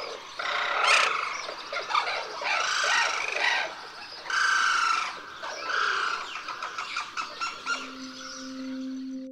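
Sarus cranes calling: a series of loud, overlapping calls, each about a second long. A steady low musical tone fades in near the end.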